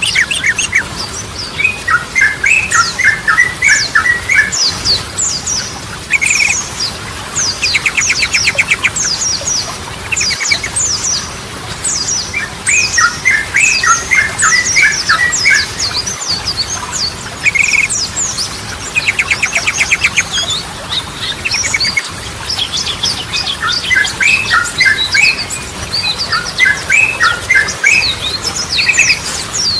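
Sooty-headed bulbul (trucukan) song: repeated phrases of bubbly, gurgling notes, twice broken by a fast rattling trill, over a steady scatter of thin high chirps. The phrases come round again and again in the same order.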